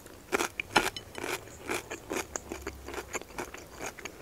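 A person chewing a mouthful of food close to the microphone: irregular soft clicks and smacks of the mouth, several a second.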